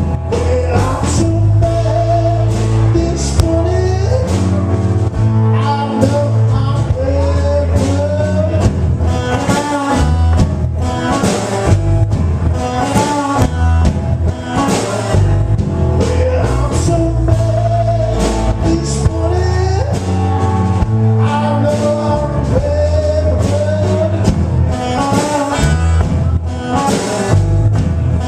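Live electric blues band playing: guitar with bending notes over a heavy, repeating bass line and drums, with singing.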